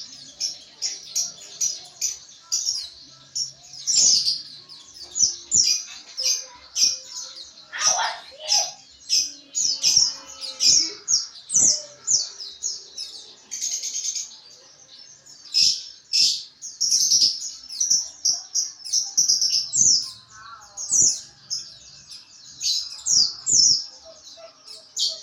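White-eye (pleci) twittering in 'ngriwik' style: a dense, unbroken run of short, high-pitched chirps. A recording of this kind is played to caged pleci to stimulate them into song.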